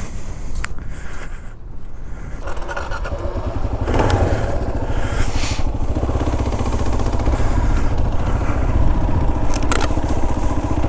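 Kawasaki KLR650's single-cylinder four-stroke engine running, getting louder about two and a half seconds in and pulling harder from about four seconds on as the bike is ridden on.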